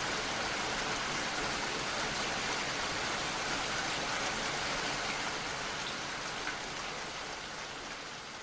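Steady rain falling, an even dense hiss of drops that begins to fade out over the last couple of seconds.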